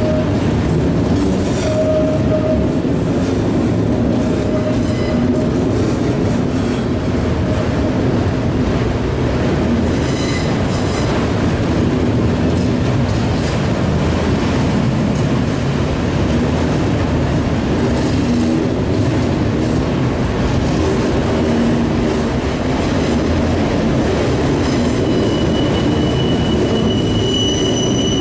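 Freight cars, autoracks and then boxcars, rolling past close by: a loud, steady rumble and clatter of steel wheels on rail. Brief wheel squeals come and go, and a high, steady squeal sets in near the end.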